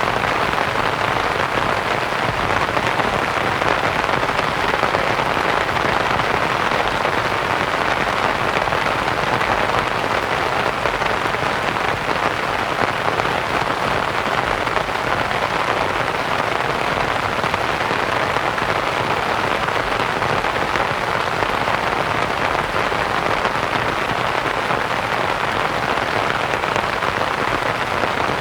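Steady rain pattering on a canvas tent, mixed with a soft white-noise hiss, even and unchanging.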